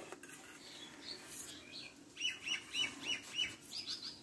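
A small bird chirping: a quick run of five or six evenly spaced chirps starting about halfway, then a few higher chirps near the end.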